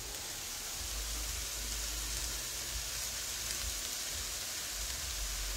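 Carrot, onion and red bell pepper frying in oil in a pan over medium heat: a steady, even sizzle.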